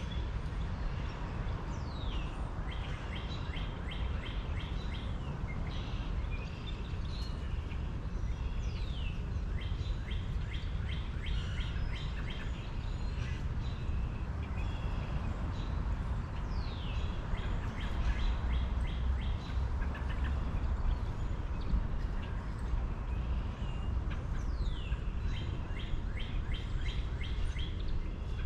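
A songbird repeating its song about every eight seconds, each song a falling whistle followed by a quick run of clipped notes, over a steady low rumble.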